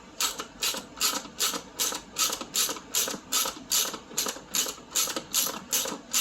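Socket ratchet wrench clicking in steady, even strokes, about two and a half a second, as the seat's new socket-head bolts are run down snug.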